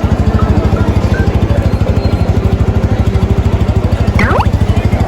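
Motorcycle engine idling steadily, a fast even low pulse of about a dozen beats a second. A short sliding tone that drops in pitch cuts across it about four seconds in.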